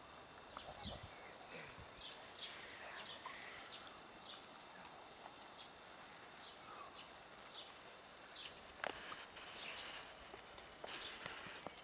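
Faint outdoor ambience of small birds chirping, short high calls repeating every half second or so, with a few soft knocks and a single sharp click about nine seconds in.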